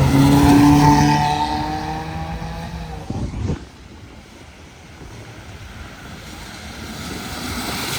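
A modified car's engine and exhaust running with a loud, steady note that slowly drops in pitch and fades over about three seconds. A short sharp noise follows, and another car's engine note builds near the end.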